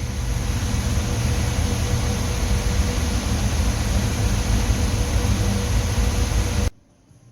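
Twin-turbo 540 cubic-inch big-block Chevy V8 running loud and steady on an engine dyno, a dense roar with a deep rumble underneath, which cuts off suddenly near the end.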